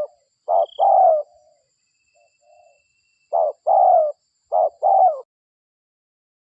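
Spotted dove (derkuku) cooing: three paired phrases, each a short coo followed by a longer coo that falls in pitch. It stops a little after five seconds in.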